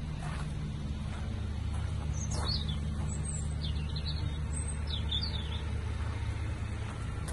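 A small bird chirping several times in short high calls, over a steady low hum.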